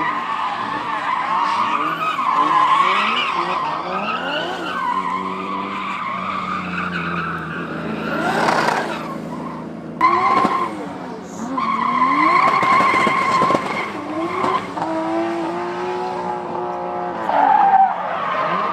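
Drift cars sliding, tyres squealing around a steady high pitch while engines rev up and down in pitch between shifts and throttle blips.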